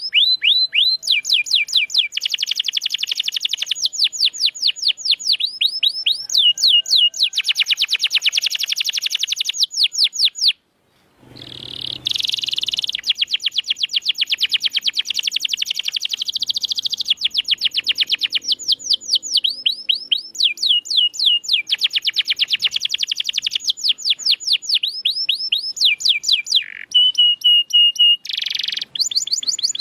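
Domestic canary singing fast rolling trills of quick downward-sweeping notes, phrase after phrase, with a brief break about a third of the way through.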